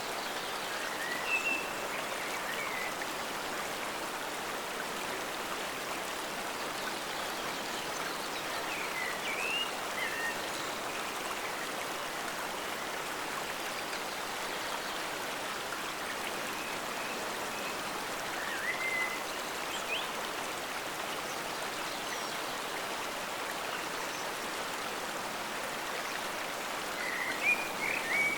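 Forest stream flowing in a steady rush, with a few short high chirps now and then above it.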